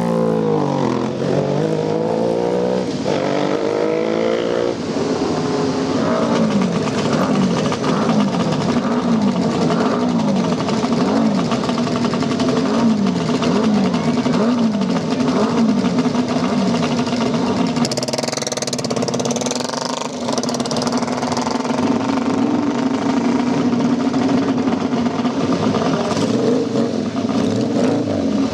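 Classic motorcycle engines running and revving. One engine's revs rise and fall in a steady rhythm about once a second, then settle to a steady speed.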